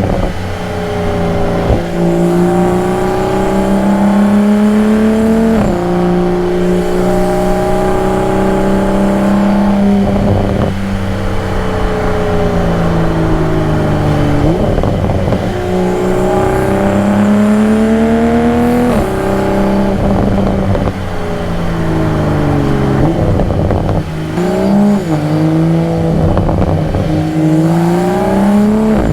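2022 Toyota Supra's engine, exhaust and intake under way, the revs climbing and falling through a run of gear changes, with the pitch jumping suddenly at each shift, about eight times.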